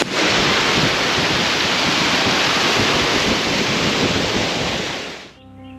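Waterfall rushing: a loud, steady roar of falling water that fades away about five seconds in, giving way to quiet music.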